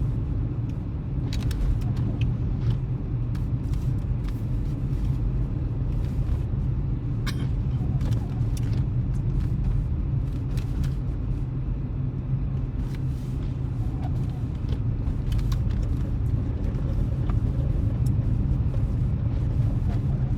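Car driving, heard from inside the cabin: a steady low rumble of road and engine noise, with a few faint clicks scattered through it.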